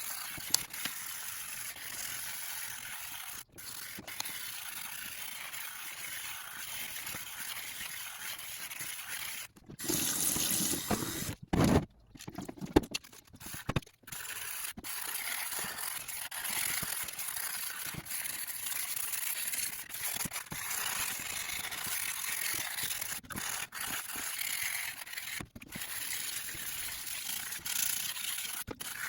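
Stainless-steel fire pit being scrubbed with a brush and water, a steady wet scrubbing hiss broken by a few abrupt cuts, with a louder stretch about ten seconds in.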